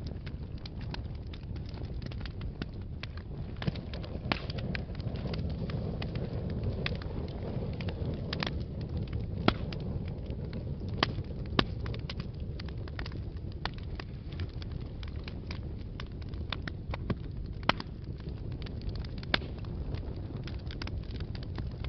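Wood fire burning in a fireplace: a steady low rumble of flames with scattered sharp crackles and pops, a dozen or so standing out.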